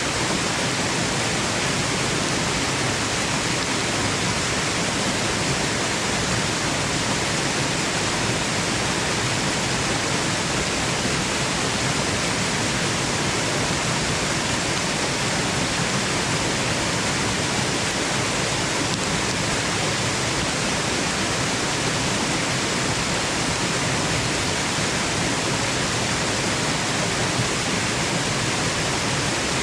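Steady, unbroken rushing of a waterfall, used as white noise for a baby's sleep; an even hiss with no changes.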